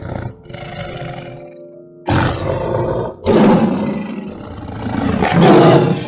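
Tiger roaring: two softer rough calls, then three loud, harsh roars from about two seconds in, each a second or two long.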